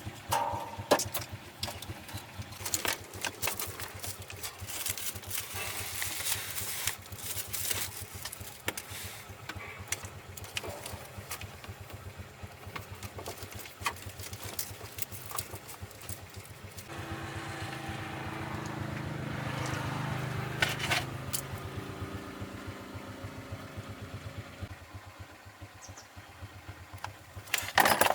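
An engine idling steadily, with scattered metallic clicks and knocks. About seventeen seconds in the engine note grows louder for several seconds, then settles back. A sharp knock comes right at the end.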